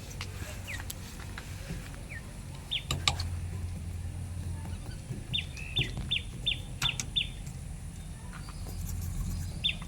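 A bird calling in quick runs of short, falling chirps, about three a second: one run about halfway in and another starting near the end, over a low steady hum.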